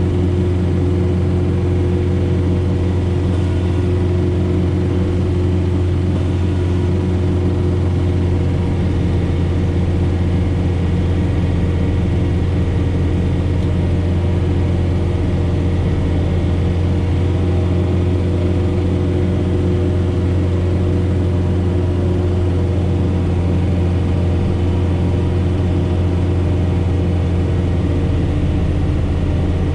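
John Deere 4066R compact tractor's diesel engine running steadily at constant speed, driving a Frontier SB1174 snowblower through heavy wet snow.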